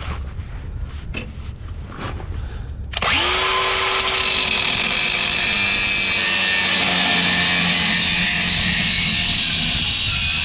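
DeWalt angle grinder starting up about three seconds in with a quick rising whine, then running steadily as it cuts through a rusted exhaust pipe flange. Before it starts, a few clicks and knocks of handling.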